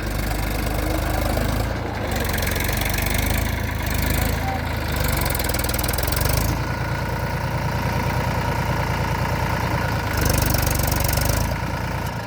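Eicher tractor's diesel engine running under load with a steady low beat, stuck in mud; it surges louder several times, with a hiss over the top during each surge.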